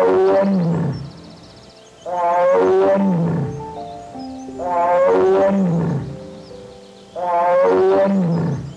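An animal's call repeated four times, about every two and a half seconds. Each call is loud, about a second long and falls in pitch. Background music plays throughout.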